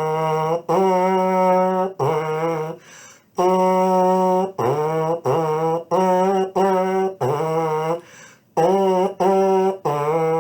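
Trombone/baritone mouthpiece buzzed on its own: a string of short, tongued notes alternating between a higher and a lower pitch in a simple children's tune, with short breath gaps between phrases.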